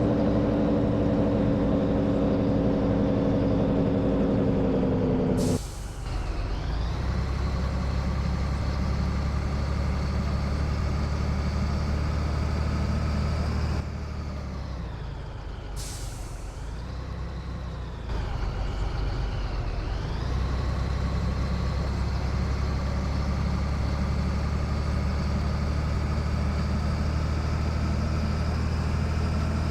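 Scania 113 truck's engine pulling under load, its pitch climbing through each gear. A sharp burst of air hiss comes at each break in the engine note, about five seconds in and again about sixteen seconds in.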